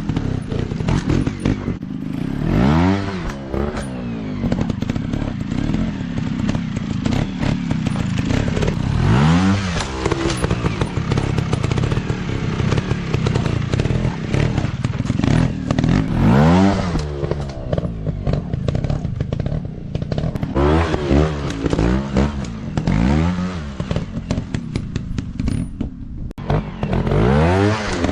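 Dirt bike engines revving up and dropping back again and again, about six throttle bursts over continuous engine running, with short clattering knocks throughout.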